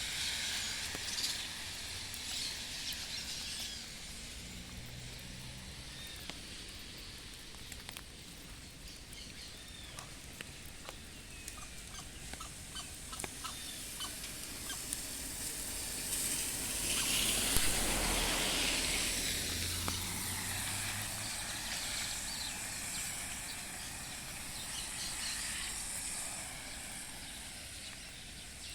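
Steady hiss of rain with scattered bird chirps. About two-thirds of the way through, a louder rushing sound swells and fades.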